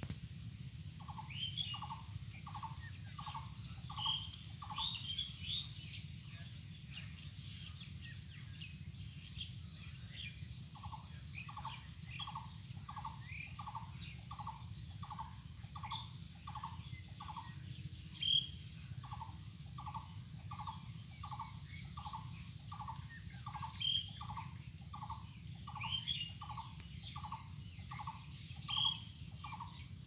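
A bird repeating one short note about twice a second in long runs, pausing briefly twice, while other birds chirp higher and more sparsely over a low steady rumble.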